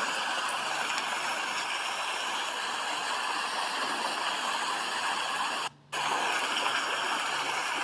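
Steady rain, a continuous even hiss, that cuts out for a split second about three-quarters of the way through.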